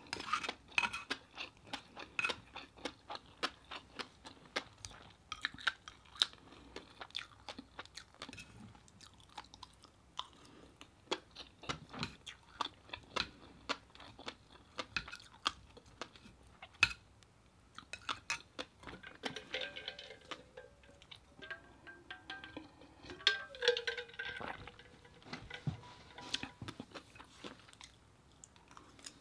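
Chewing and lip-smacking through a mouthful of rice and fish roe, with many small clicks throughout and the scrape of a metal spoon scooping rice from a plate. A short stretch of pitched sound comes in about twenty seconds in.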